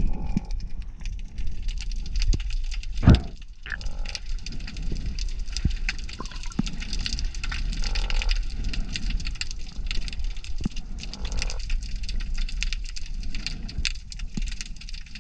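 Short croaks heard underwater, about one every four seconds, over a constant crackle of clicks, with one sharp knock about three seconds in. The diver takes the croaks for a lobster.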